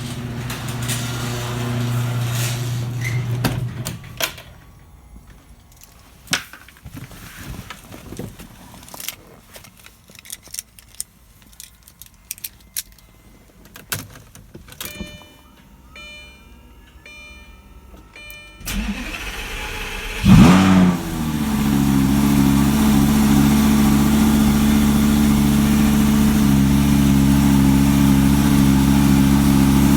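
Car engine cold-started after sitting ten days. After scattered clicks and knocks and a few electronic beeps, the starter cranks for about a second and a half. The engine catches with a rev about twenty seconds in, then settles into a steady cold idle.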